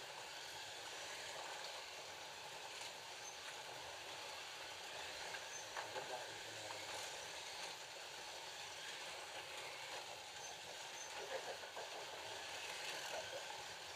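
FLY Classic slot cars with 19K motors running round a slot car track: a steady whir of small electric motors and gears, with a few light clicks.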